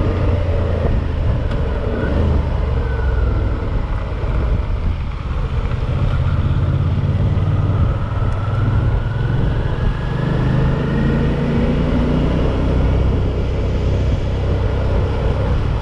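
Suzuki V-Strom 650's V-twin engine running steadily on the move, its note rising and falling gently, under a heavy rush of low noise.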